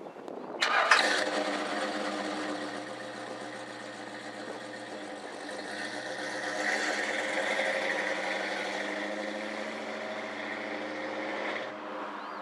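A car engine running: it comes in suddenly about a second in, swells midway and cuts off abruptly near the end.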